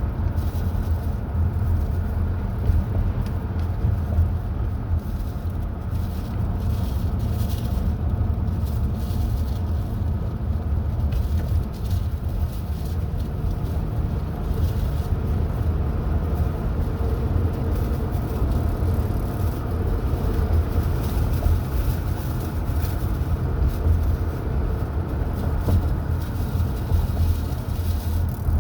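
Car driving at a steady speed: a constant low rumble of engine and tyre road noise.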